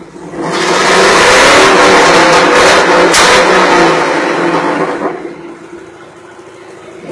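A vehicle engine revved hard for about five seconds, then dropping back.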